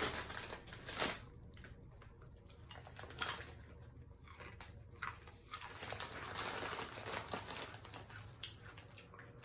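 Potato chips crunching as a person bites and chews them: a few separate crisp crunches about two seconds apart, then a busier stretch of chewing past the middle.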